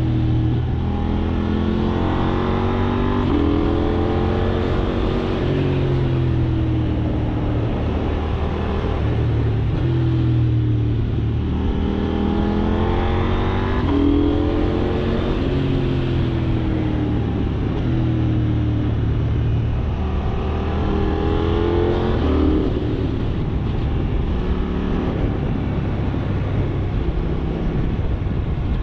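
KTM 790 Duke's parallel-twin engine pulling hard through the gears several times: the pitch rises, drops at each upshift, and falls away as the rider rolls off between pulls.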